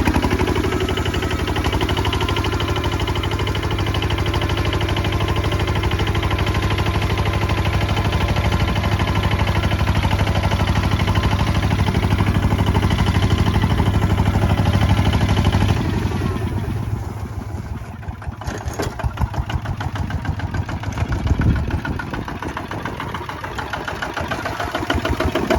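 Kubota ZT155 single-cylinder diesel engine on a walking tractor, running steadily under plowing load. About sixteen seconds in it drops to a quieter, slower, uneven beat as the engine is throttled back.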